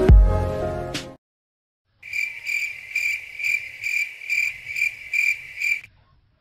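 The tail of intro music ends about a second in. After a short silence a cricket chirps in a steady run of about three pulses a second, then stops abruptly near the end, likely an added sound effect.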